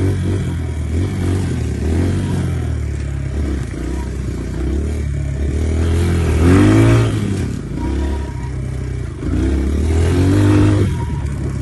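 Dirt bike engine running and being revved up and eased off several times, the biggest rise about six to seven seconds in.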